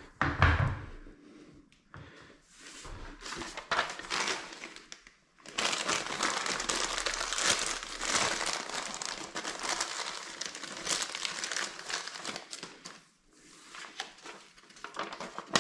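Plastic packaging crinkling and rustling as it is handled, in short bursts at first, then steadily for about seven seconds from about five seconds in.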